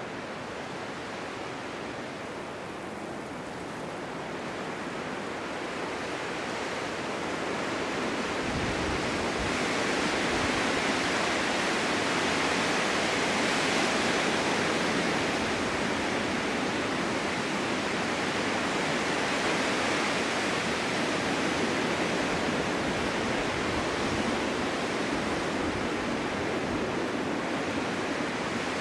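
Snowstorm wind blowing, a steady rushing that swells over several seconds into a stronger gust near the middle and eases a little toward the end.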